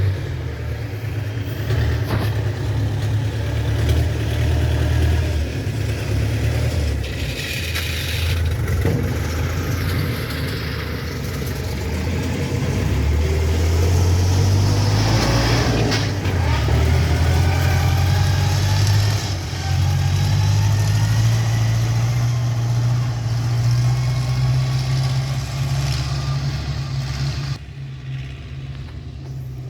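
A motor vehicle's engine running on the road with road and wind noise, its pitch rising several times as it speeds up, then easing off near the end.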